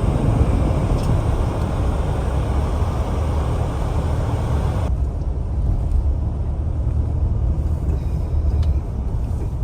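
Vehicle driving, a loud steady low rumble of engine and road noise; the higher hiss thins out about five seconds in.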